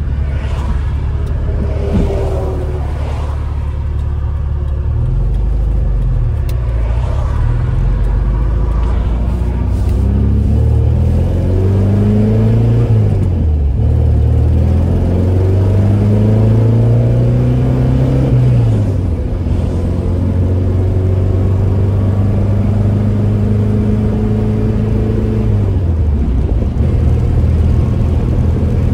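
1975 Porsche 914's air-cooled flat-four, heard from inside the cabin, accelerating up through the gears. The engine note climbs and drops back at each of several shifts, then holds steady at cruise near the end.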